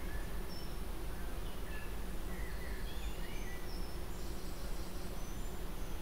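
Scattered faint bird chirps and short whistles over a steady low background rumble.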